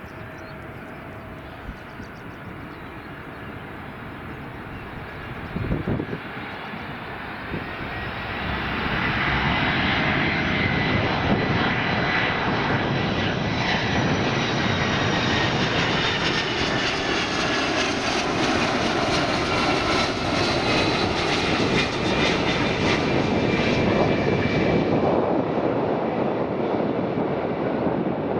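Boeing 767-200 twin-jet airliner's engines on its landing approach, the noise swelling about eight seconds in and staying loud as it passes. A turbine whine slowly falls in pitch. There is a brief thump about six seconds in.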